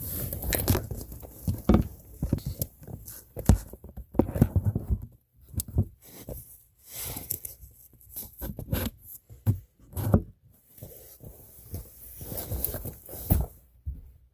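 Irregular rustling and scraping with sharp knocks, coming in uneven bursts with a few short pauses.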